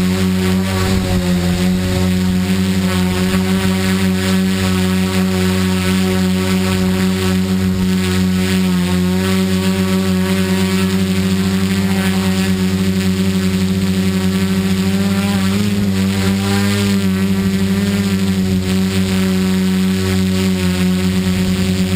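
Tricopter's electric motors and propellers buzzing steadily in flight, their pitch shifting slightly about two-thirds of the way through.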